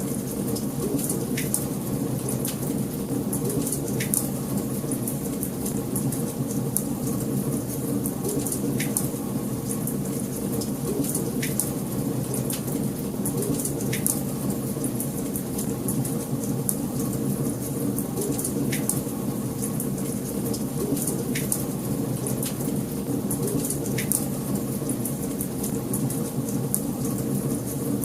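Wood fire burning in a fireplace: a steady low rush of flames with sharp crackling pops every few seconds. The pops fall in a pattern that repeats about every ten seconds.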